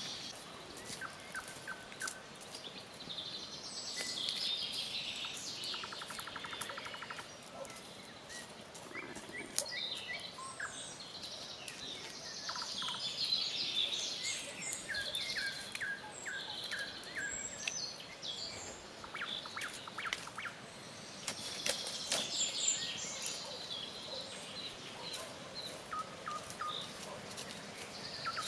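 Several birds singing: quick high chirps and song phrases, with short fast buzzy trills now and then. Scattered light clicks and knocks sound throughout.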